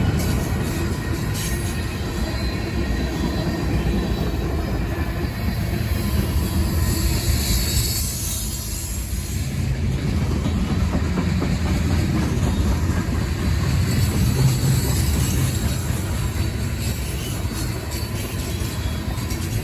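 Freight train rolling past: a steady rumble of cars on the rails, with a stretch of high-pitched wheel squeal about seven to nine seconds in.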